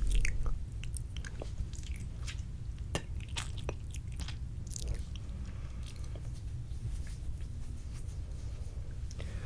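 Close-up wet mouth sounds: irregular sticky clicks and smacks right at the microphone, over a steady low rumble.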